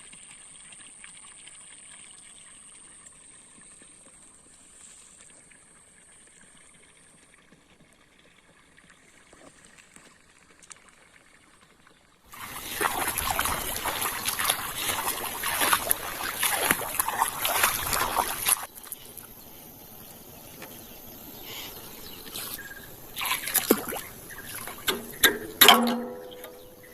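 Water splashing and pouring: quiet at first with a faint steady high whine, then about six seconds of loud rushing water starting suddenly about twelve seconds in, followed by scattered splashes and clicks.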